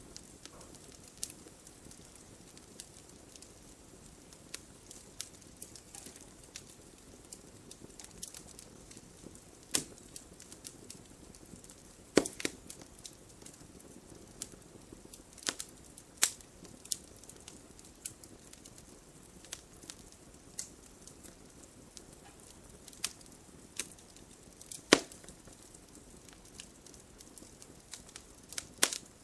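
Wood campfire crackling: irregular sharp snaps and pops over a soft steady hiss, with a few louder pops, the loudest about 12 and 25 seconds in.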